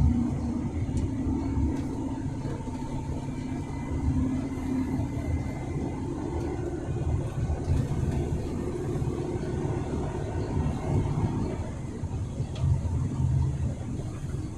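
Truck engine running steadily with low road rumble, heard from inside the cab while driving.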